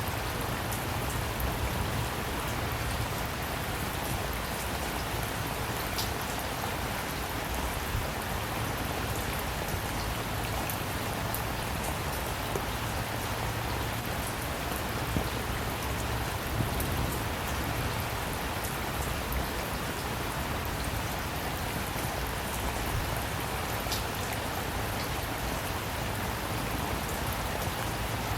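Steady rain falling, an even hiss with scattered individual drops tapping on surfaces.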